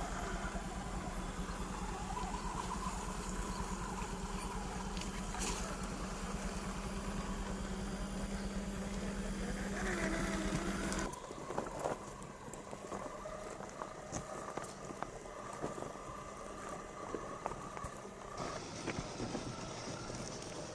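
1/10-scale RC crawler trucks driving over rough ground: a steady electric-motor drone, with many irregular clicks and clatters of tyres and chassis on rocks and gravel.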